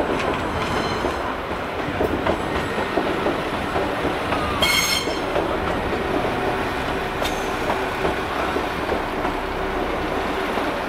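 Train running along the track, a steady rumble with clickety-clack over the rails. About halfway through there is a brief high-pitched squeal.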